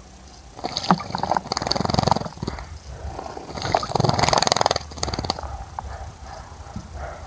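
A small bird bathing in a bird bath, splashing and fluttering its wings in the water in two loud bursts of a second or two each, with smaller splashes after.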